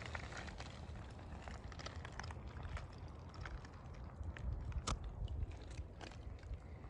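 Footsteps crunching through dry leaf litter and twigs: irregular crunches and clicks over a low rumble, with one sharper snap about five seconds in.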